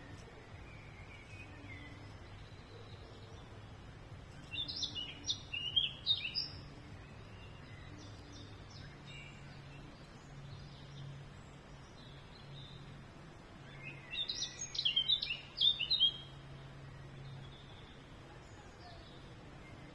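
A songbird singing two short phrases of quick, high chirps about ten seconds apart, over a faint steady low hum.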